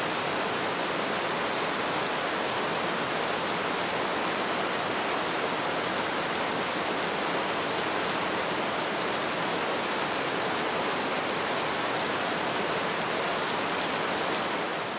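Steady rain falling, an even, unbroken hiss of many drops, beginning to fade out near the end.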